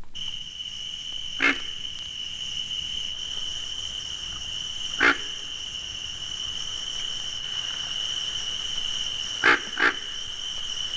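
Pig frog giving single short grunts, a few seconds apart with a quick pair near the end, over a steady high-pitched chorus of cricket frogs. The grunt is little more than a snort, probably the pig frog's territoriality call.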